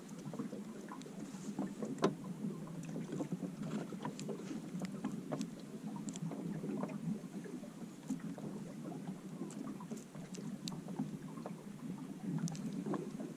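A small fishing boat on the water: steady low hull and water noise with scattered light clicks and knocks, one louder knock about two seconds in.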